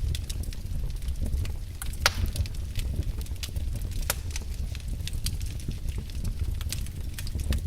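Wood fire in a fireplace crackling: irregular sharp pops and snaps over a steady low rumble of the flames, with one louder pop about two seconds in.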